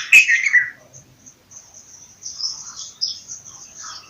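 Bulbul calling: a loud burst of liquid chirping notes right at the start, then a softer phrase about two seconds in, over steady high-pitched twittering.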